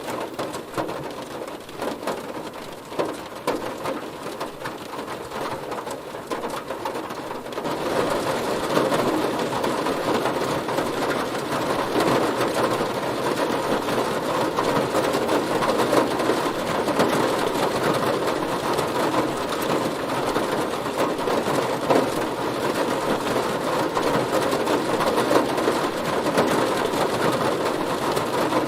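Heavy rain pattering on a car's body, a dense, even noise of countless drops that grows louder and heavier about a quarter of the way in.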